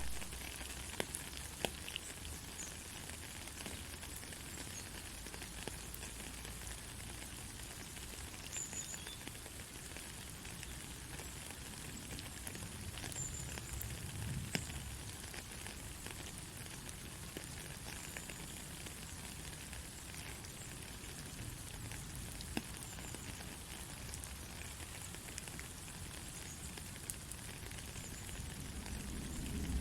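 Soft rain falling: a steady hiss with scattered sharp ticks of individual drops.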